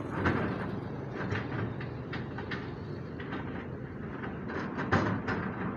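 CAT 320D2 hydraulic excavator running at work, its engine a steady rumble under a run of clanks and knocks, the loudest about a third of a second in and again near five seconds in.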